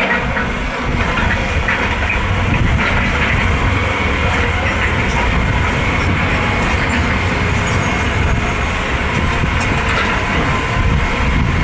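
Excavator at work: its diesel engine and hydraulic attachment running steadily, with a dense, even mechanical noise.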